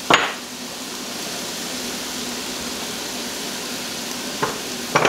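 Diced potatoes, onions and meat sizzling steadily in a stainless steel skillet on a gas stove, with a short knock just at the start and a couple of brief sounds near the end.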